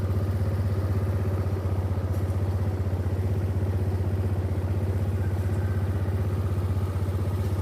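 An engine running steadily at idle, a low, fast, even putter that holds unchanged throughout.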